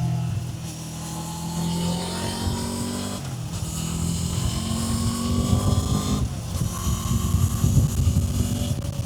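Kawasaki Z500's parallel-twin engine accelerating, its pitch rising and then dropping at an upshift about three seconds in and again about six seconds in, getting louder and rougher in the last few seconds.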